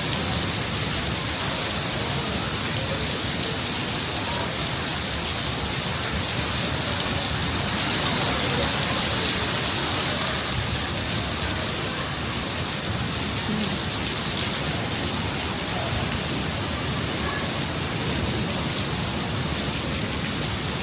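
Heavy rain falling steadily, a dense even hiss that swells slightly about eight seconds in.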